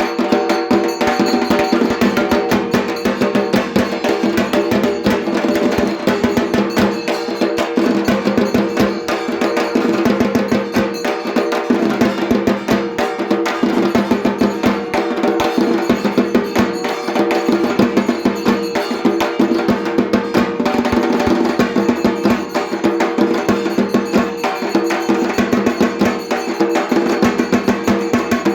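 Music with fast, continuous drumming over steady held tones.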